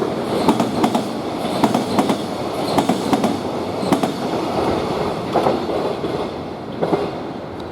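Freight train wagons rolling past, wheels clacking over rail joints in an uneven rhythm over a steady rumble, easing slightly near the end.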